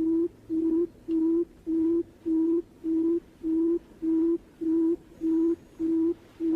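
Barred buttonquail's call: a low hoot on one steady pitch, repeated evenly about twice a second, each note short with a quiet gap after it.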